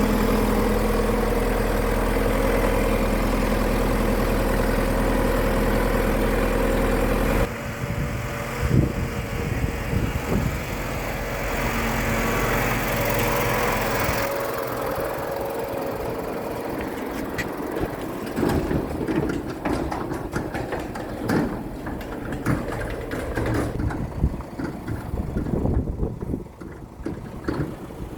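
Vehicle engine running steadily for about seven seconds, then an abrupt change to a rougher, noisier sound, followed in the second half by scattered knocks and clattering.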